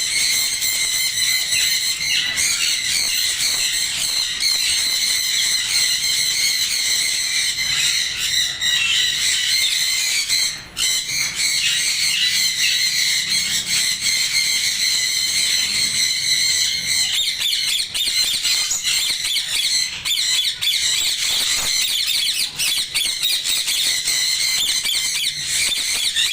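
A flock of caged parrots screeching and chattering without a break: a loud, dense, high-pitched din.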